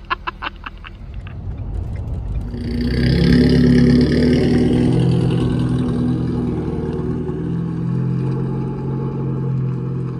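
A motor vehicle's engine running, swelling about two to three seconds in and then holding a steady drone, after a few quick clicks in the first second.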